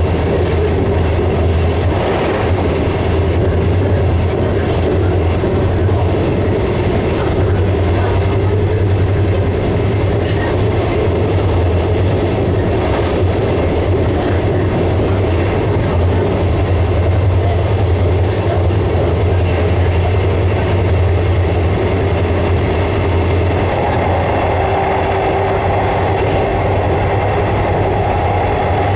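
JR West 115 series electric train running along the line, heard from the driver's cab: a steady low hum and wheel-on-rail rumble, with occasional clicks of the wheels over the rail joints. A higher-pitched hum joins about five seconds before the end.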